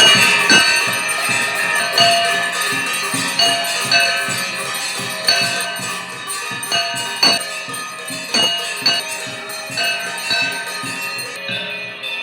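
Temple bells ringing continuously, with sharp metallic strikes at uneven intervals, the temple's own sound during the mangala darshan worship.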